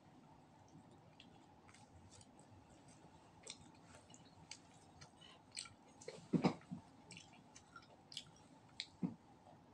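Close-miked chewing of roast duck: small wet mouth clicks and smacks scattered throughout, with one brief louder mouth sound about six and a half seconds in.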